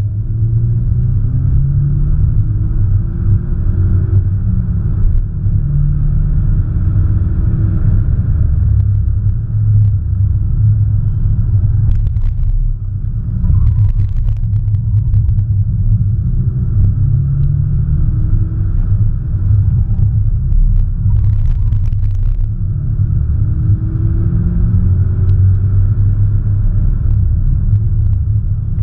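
Audi S1 Sportback's turbocharged 2.0-litre four-cylinder engine under load, its pitch rising several times as it pulls up through the revs, over a heavy low rumble. A few short knocks come around the middle.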